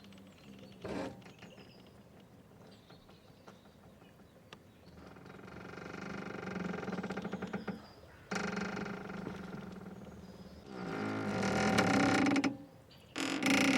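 Boat's rope squeaking as it strains under the boat's movement: a few drawn-out creaking groans, the loudest coming near the end.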